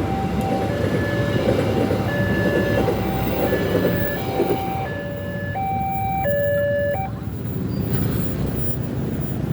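Railway level-crossing warning alarm sounding an alternating two-note electronic tone over the rumble of a passing train. The alarm cuts off about seven seconds in while the train rumble continues.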